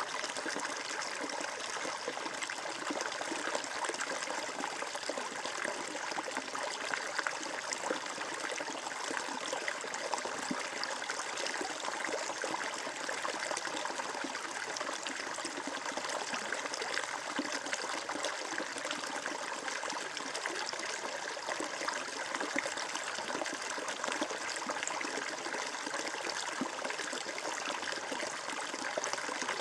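Flowing water, a stream running over stones with a steady babbling trickle.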